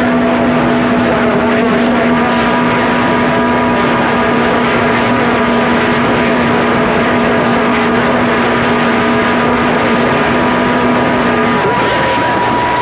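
CB radio receiver on 27.025 MHz full of loud static hiss with several steady whistles, the heterodyne tones of other stations' carriers keyed up at once. Most of the whistles drop out near the end, leaving a single higher whistle over the hiss.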